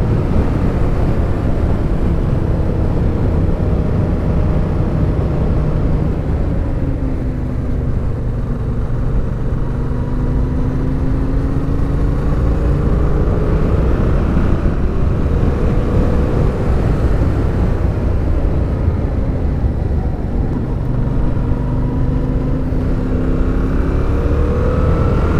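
Suzuki motorcycle engine running on the move, heavy with wind and road noise, its pitch easing off and climbing again a few times with the throttle.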